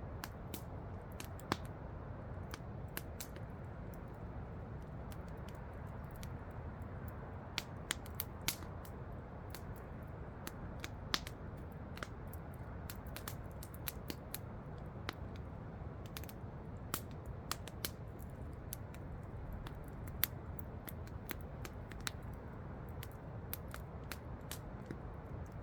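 Campfire crackling, with irregular sharp pops and snaps, over the steady low rush of a waterfall.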